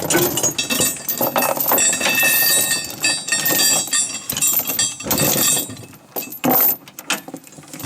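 Tie-down chain clinking and rattling as it is handled, irregular metal-on-metal clatter with a brief ringing between knocks.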